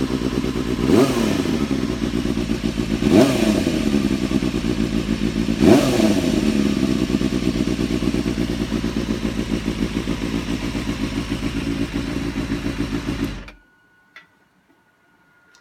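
Suzuki Bandit 250's inline-four engine running through an Akrapovič muffler: three quick throttle blips in the first six seconds, then steady idle until the sound cuts off about thirteen seconds in.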